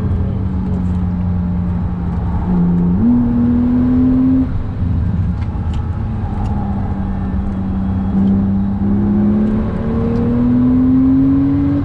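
Sports car engine under way at fairly steady revs with road rumble underneath. Its pitch steps up about three seconds in and drops back a second and a half later, then climbs steadily near the end as the car accelerates.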